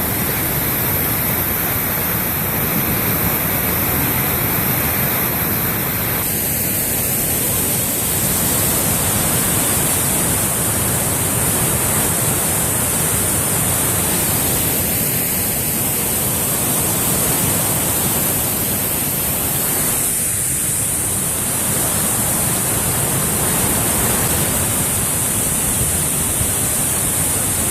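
Waterfall running high with spring snowmelt: a loud, steady rush of falling water.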